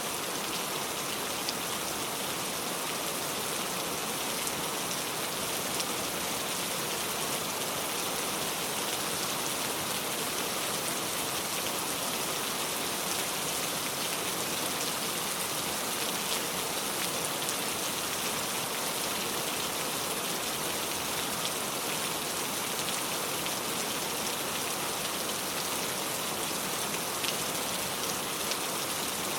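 Steady rain falling on a car, an even hiss of drops with faint scattered ticks.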